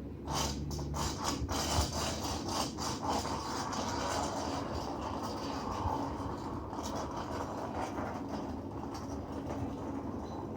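Clockwork spring motor of a tin toy flying-wing airplane: sharp ratchet-like clicks for the first couple of seconds, then a steady mechanical whirring that slowly fades as it runs.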